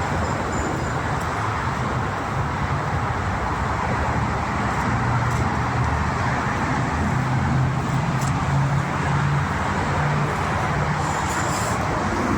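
Steady motor-vehicle noise: a low, wavering hum under an even hiss.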